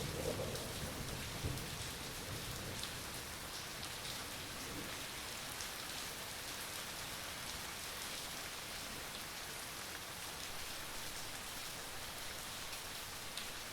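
Steady rain falling, an even hiss with scattered drop ticks. A low thunder rumble dies away in the first two seconds.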